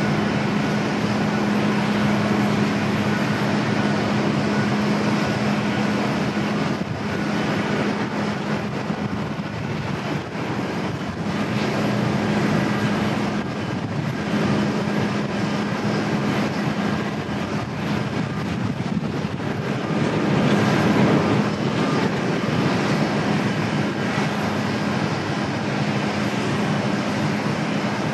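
Airliner engine noise at an airport: a continuous roar with a steady low hum, swelling slightly about twenty seconds in.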